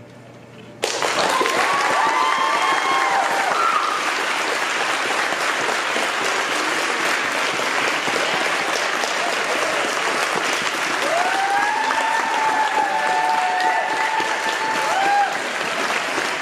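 Audience applause starting suddenly about a second in and holding steady, with cheering voices rising above the clapping twice.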